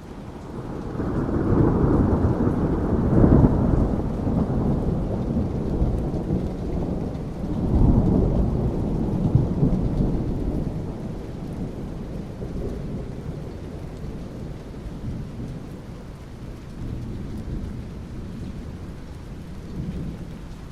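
Thunder rumbling over steady rain. The rumble builds in the first seconds, swells again about eight seconds in, then slowly dies away under the rain.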